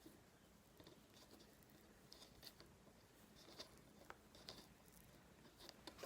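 Near silence, with a scattering of faint, short clicks and taps, as of light handling.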